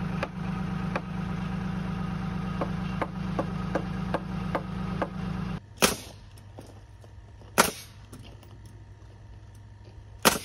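Tractor engine running steadily with scattered light knocks, then stopping abruptly about five and a half seconds in. After that come three loud, sharp knocks, each well over a second apart.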